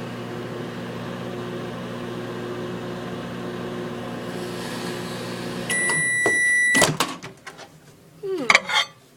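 Microwave oven running with a steady hum while a piece of banana heats inside, with a faint hiss from the banana a little after four seconds in. About six seconds in, the microwave gives one long beep, followed by a sharp click as it stops and the door opens.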